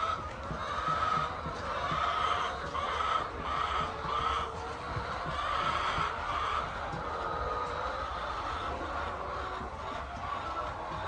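A flock of poultry calling, many birds at once. A run of similar repeated calls comes about once a second through the first seven seconds, then gives way to a looser chorus, with a steady low hum underneath.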